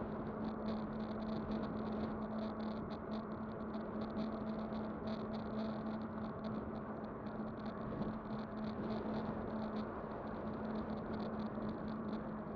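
Electric bike riding along at a steady speed: a constant motor whine over a rush of tyre and wind noise.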